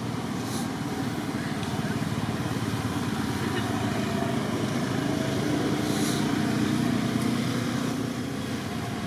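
A steady motor-vehicle engine drone that grows a little louder past the middle, with a few faint short clicks.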